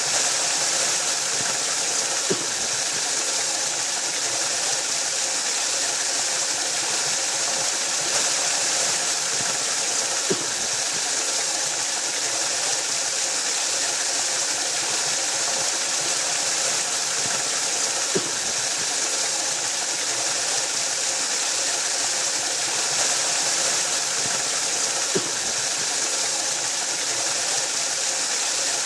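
Waterfall rushing steadily: a constant hiss of falling water. Four faint knocks come at even spacing, about eight seconds apart.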